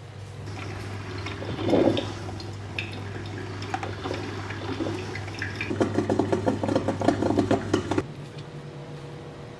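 Water running or being poured in a kitchen over a steady electric hum, with a bubbling, crackling stretch just before the hum stops about eight seconds in.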